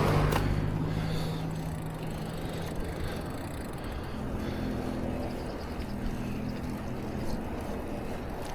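A motor vehicle goes past: a whoosh that peaks at the start and fades, leaving a low engine hum that slowly dies away over several seconds.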